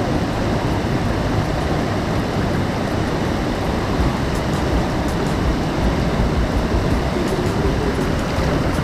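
Steady, loud rush of water, an even roar with no breaks.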